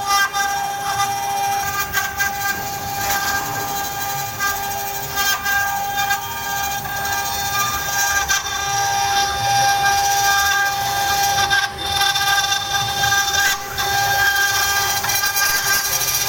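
CNC router spindle running at a steady high-pitched whine while the bit cuts, with a rough cutting noise and scattered clicks underneath.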